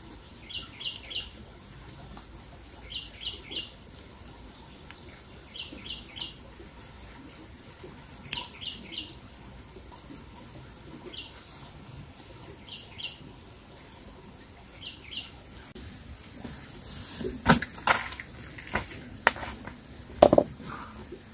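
A bird calling over and over, each call a quick group of two or three short high notes, repeated every two to three seconds. In the last few seconds come several sharp knocks and crackles.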